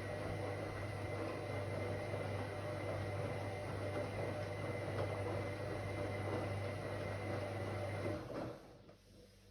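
Whirlpool AWOC 8283 washing machine running with a steady motor hum and whir, then winding down and going quiet about eight seconds in.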